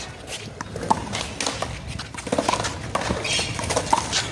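One-wall handball rally: a small rubber handball smacking the wall and bouncing on the court, with the players' shoes slapping the pavement, a string of sharp knocks at uneven spacing.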